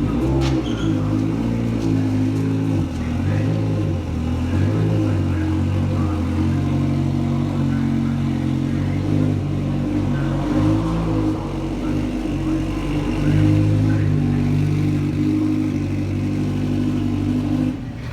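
A muscle car's race engine running hard. Its pitch holds steady for stretches and then steps up or down several times.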